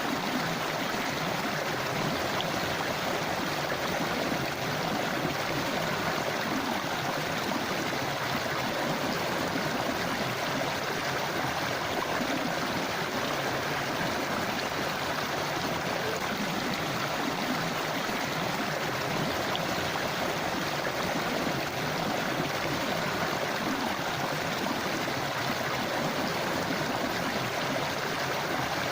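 A river or stream flowing and burbling over rocks, as a steady, unbroken rush of water.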